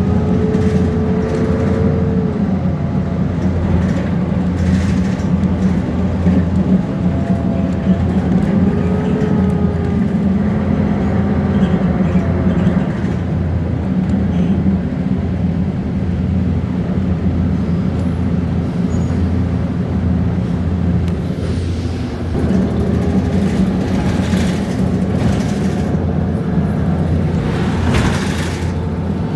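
Mercedes-Benz Conecto G articulated bus's OM457LA inline-six diesel running steadily, with a whine that rises and falls in pitch now and then. Short bursts of hiss come near the end.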